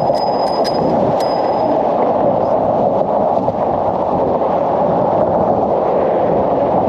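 Steady rushing wind buffeting the camera microphone while riding an e-bike in strong wind, with a few sharp metallic ticks in the first two seconds.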